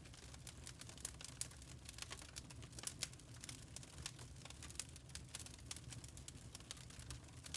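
Burning charcoal crackling: many small irregular pops and ticks over a faint steady hiss.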